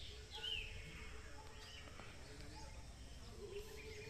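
Birds chirping now and then, with a falling call about half a second in, over a steady low background noise.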